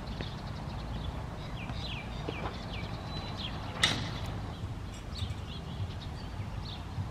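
Birds chirping in a string of short, falling calls over a low, steady background rumble, with one sharp clack a little under four seconds in.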